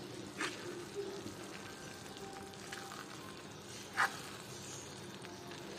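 Minced meat gently sizzling in a metal pan as a spoon stirs through it, with one sharp clink of the spoon against the pan about four seconds in.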